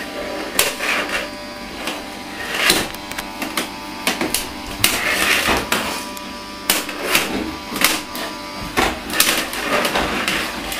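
Small battery motor of a Casdon toy 'Henry' vacuum cleaner running with a steady hum, with knocks, clicks and rattles as the toy is pushed and bumped across the floor.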